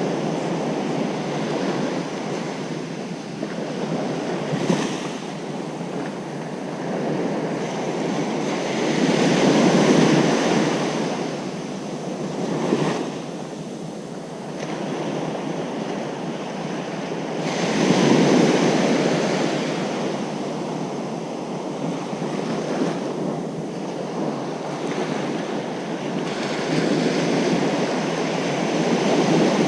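Ocean surf breaking on a beach: a continuous wash of water with waves swelling louder about every eight to ten seconds.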